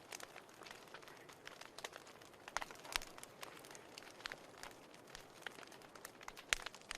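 Wood fire in a fireplace crackling, with irregular sharp pops over a faint steady hiss. Two louder pops come about three seconds in and again near the end.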